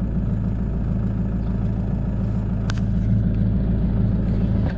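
Car engine idling steadily just after being started, a low even hum. A single sharp click comes about two and a half seconds in.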